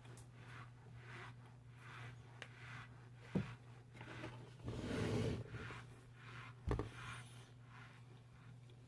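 Close-up chewing of crunchy chunks mixed with powder, about two crunches a second over a steady low hum, with a couple of sharp knocks and a louder rustling swell partway through.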